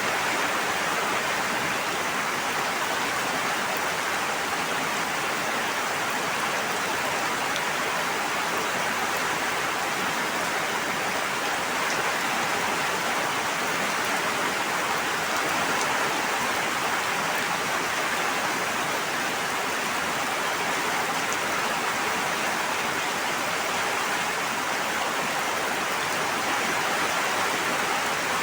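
Steady water noise, even and unbroken, with no swells or separate drops.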